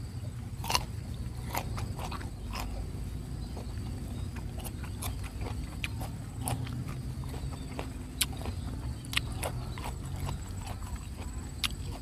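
Close-up chewing of crunchy unripe fruit: irregular crisp crunches, roughly one every half second to second.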